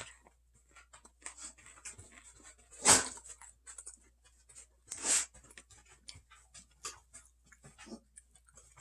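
A person chewing broccoli salad close to the microphone: many small wet clicks and lip smacks, with two louder noises about three and five seconds in.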